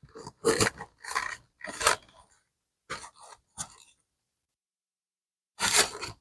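Rubbing strokes on the leather of a Swiss Army bag to open its pores before cleaning: four scratchy strokes in quick succession, two shorter ones, a pause, then one more near the end.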